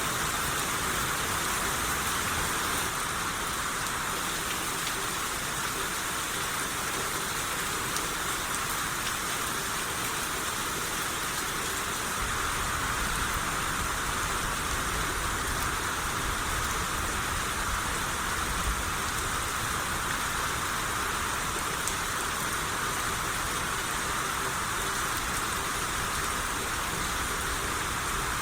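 Steady rain shower, a constant hiss of rainfall with scattered drops pattering on surfaces.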